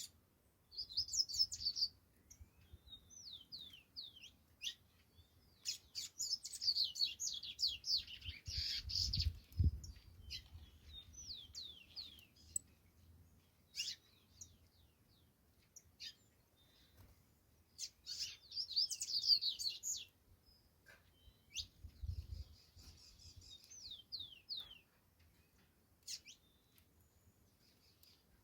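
Saffron finch singing: bouts of rapid, sweeping high chirps strung into phrases a second or a few seconds long, with short pauses between them. A low thud comes twice, about a third of the way in and again near the end.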